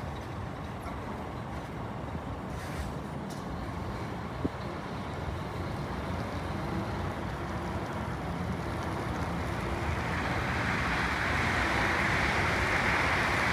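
Scania R480 truck's diesel engine running steadily, with a hiss that grows louder from about ten seconds in.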